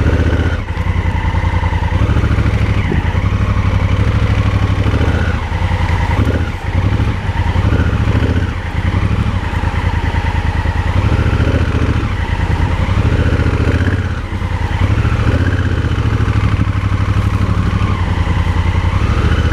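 Motorcycle engine running hard at low speed in a low gear on a rough dirt road, its throttle easing off briefly a few times.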